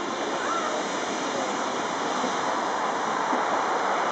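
Pullman carriages of a departing steam train rolling past close by, a steady rushing noise with a faint short squeal about half a second in.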